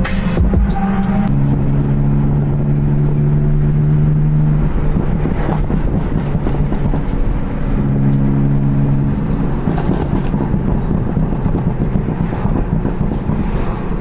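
A car's engine droning at cruising speed, heard from inside the cabin over steady road and tyre noise. The engine note shifts in pitch a few times as the revs change.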